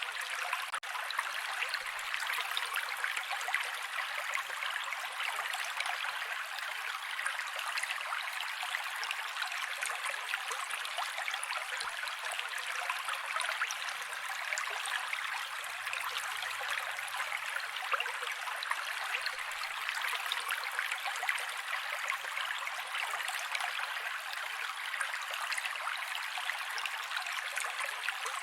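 Mountain creek water rushing and splashing over rocks in a steady, unbroken flow.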